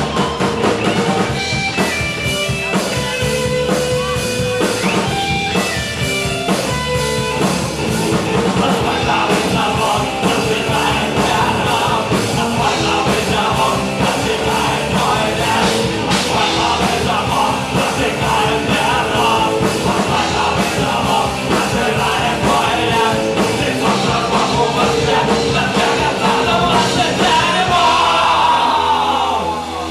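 Punk rock band playing with electric guitar, drums and singing; the song ends just before the close.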